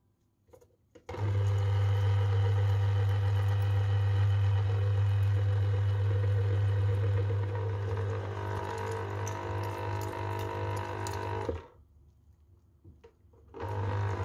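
A small electric motor running with a steady, pitched hum; it starts about a second in, stops abruptly with a brief near-silent pause, then starts again near the end.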